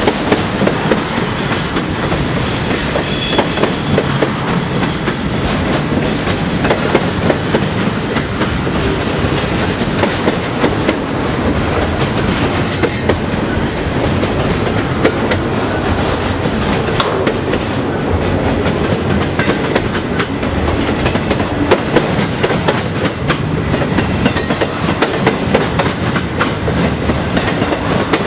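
Double-stack intermodal well cars of a freight train rolling past close by: a steady rumble of steel wheels on rail with a constant run of clicks and clacks.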